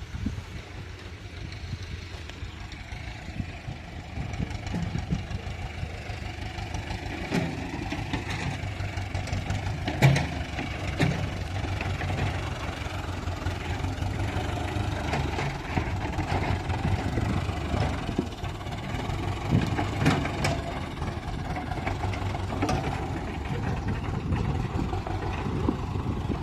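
Mechanical digger's engine running steadily, gradually growing louder over the first several seconds. Scattered sharp knocks and clatters come through it, the loudest about ten seconds in.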